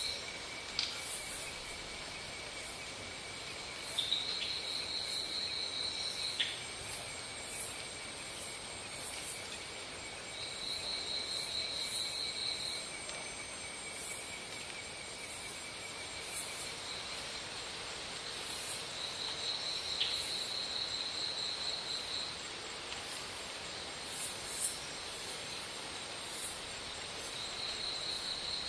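Insects calling: a high, steady trill that comes in bouts of two to three seconds, over a lower continuous tone that stops about two-thirds of the way through.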